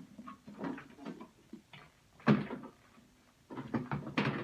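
Short knocks and rattles of microwave parts and wiring being handled and pulled apart, the loudest a sharp knock about two seconds in and a quick run of clatters near the end.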